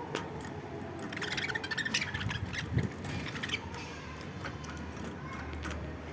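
Pet lovebirds calling, with a burst of rapid, harsh chattering about a second in that lasts a second or so.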